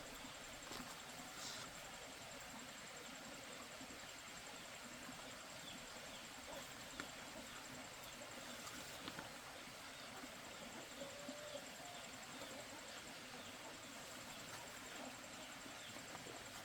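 Faint outdoor rural ambience with an insect's steady high-pitched trill running throughout, and a few soft clicks.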